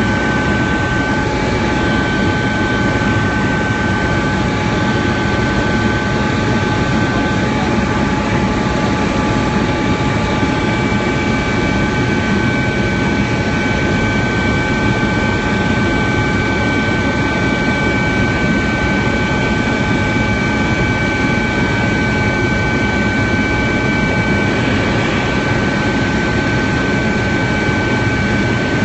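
Helicopter in flight: a steady, loud rush of rotor and engine noise with several steady high whining tones over it.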